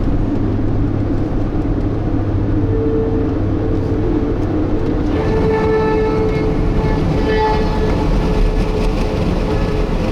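Steady road and engine noise heard from inside a moving vehicle. A steady tone comes in about three seconds in, and several higher tones join it about halfway.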